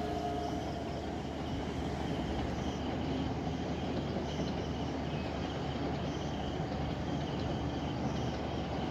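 Distant train running with a steady low rumble, under high insect chirring. A train horn's held note stops about half a second in.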